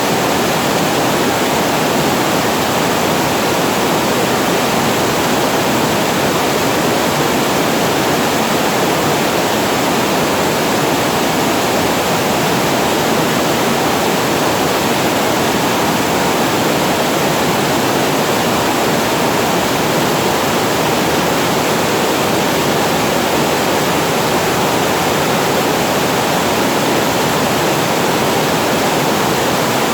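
Water spilling over a reservoir weir and falling below it: a steady, unbroken rush of water.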